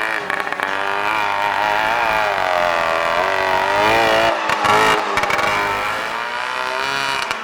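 Tractor engine revving unevenly, its pitch rising and falling repeatedly as it is driven over the course, with a sharp rev near the middle.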